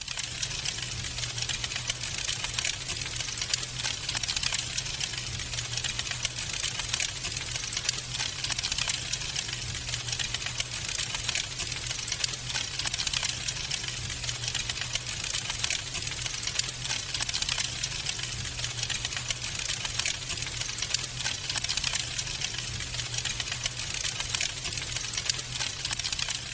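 Wood fire crackling steadily in a fireplace: a dense, continuous run of small sharp pops and snaps, with a low steady hum beneath.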